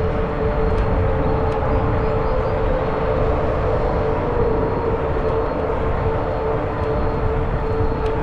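Fat-tire electric bike riding at steady speed: a constant hum from the wide tyres and drive with a steady tone, over wind rumble on the microphone.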